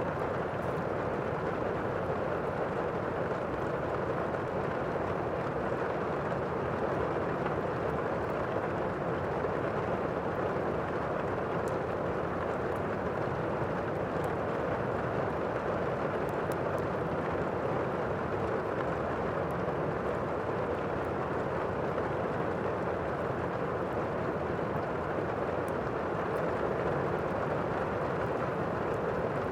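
Steady, muffled rain noise of a thunderstorm ambience track, with faint scattered crackles of a wood fire in a fireplace.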